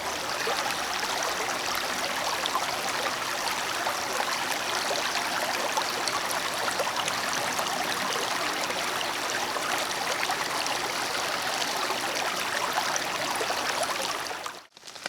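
Steady rain falling hard, a dense hiss full of tiny drop ticks, cutting off suddenly near the end.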